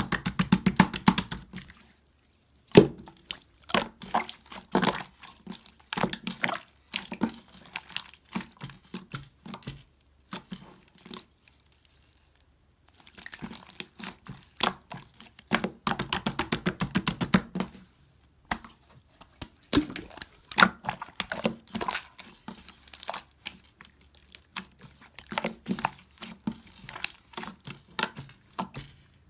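Hands squishing, folding and stretching a gold-pearl slime mixed with clay: rapid sticky clicks, crackles and small air-bubble pops in spurts, with a few short pauses.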